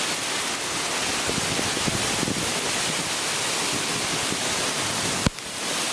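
Heavy wind-driven rain in a storm, a steady rushing hiss, with a single sharp click about five seconds in.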